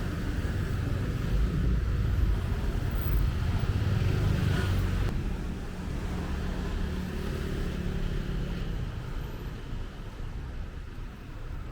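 Street traffic: a motor vehicle's engine running close by, then fading away after about halfway through, leaving quieter road noise.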